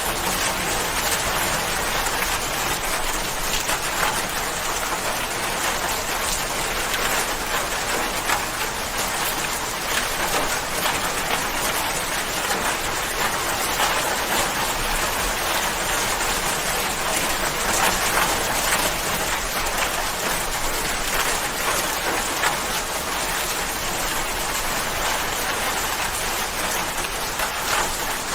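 Steady rain falling on a surface, a constant hiss dotted with many small drop ticks.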